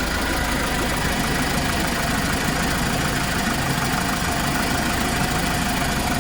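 Kia Bongo 3 cargo truck's engine idling steadily, shortly after being started.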